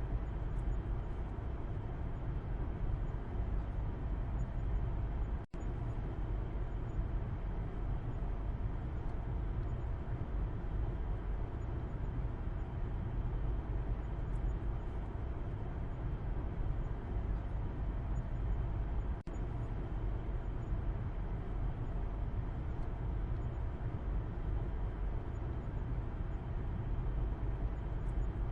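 Steady low rumble of a car driving, road and engine noise heard from inside the cabin in the back seat. The sound cuts out for an instant twice.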